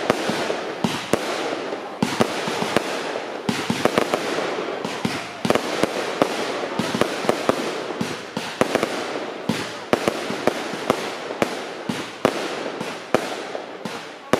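Fireworks display: a rapid, unbroken string of sharp bangs from aerial bursts, several a second, over continuous crackling.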